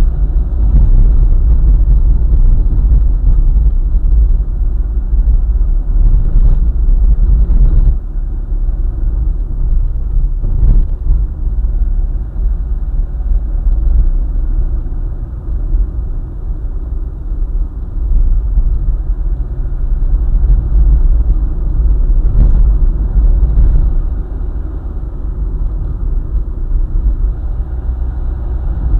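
Car driving along a highway: steady low road-and-engine rumble, easing off a little about eight seconds in and again near the end.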